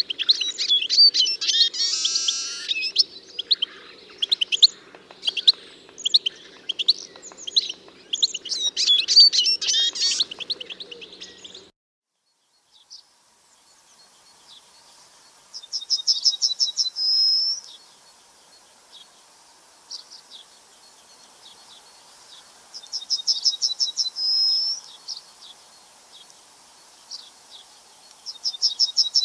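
Songbirds singing: busy overlapping high chirps and calls for the first dozen seconds, then after an abrupt cut a single bird repeats a short, fast trill that ends in a higher flourish, about once every seven seconds.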